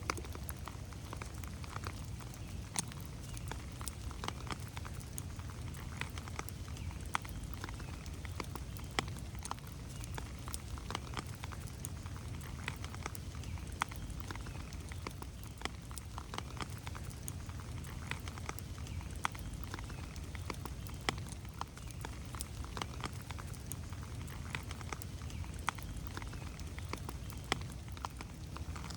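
Rain falling in a forest, with individual drops landing as irregular sharp taps, several a second, over a steady low rumble.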